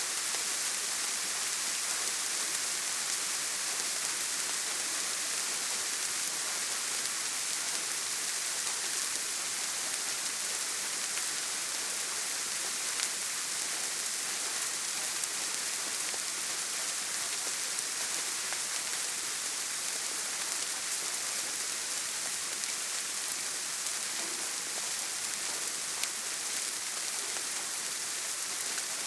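Steady rain falling on a tin roof, an even, dense hiss with no thunder.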